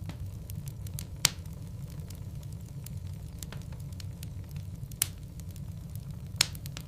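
Wood fire burning in a fireplace: a steady low rumble of the flames with sharp pops and cracks from the burning logs, three loud ones about a second, five seconds and six and a half seconds in, and fainter pops between.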